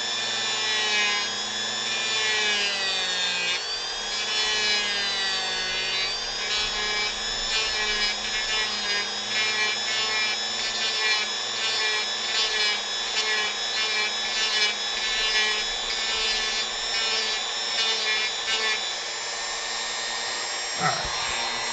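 Dremel rotary tool running at high speed and carving wood, a steady high whine whose pitch wavers as the bit works the wood. It winds down near the end, the whine falling in pitch.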